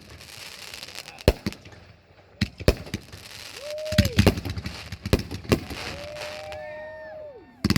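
Consumer fireworks going off: a run of sharp bangs with crackle, and whistles that rise, hold and drop away, one about four seconds in and several overlapping ones near the end.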